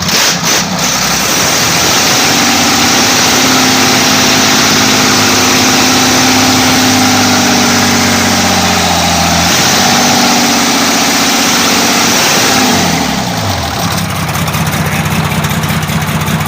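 Isuzu 6HE1 inline-six truck diesel engine revving up from idle about two seconds in, held at raised revs with a brief dip midway, then falling back to a steady idle near the end. It runs evenly, the misfiring and backfiring gone after the injection pump was calibrated.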